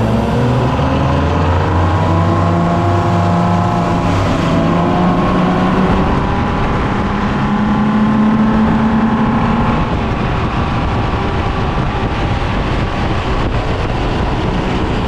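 Yamaha 300 V6 outboard running hard under load, its pitch climbing over the first few seconds and then holding steady, over wind and water rush. The engine is being run up to high RPM to reproduce a stalling problem.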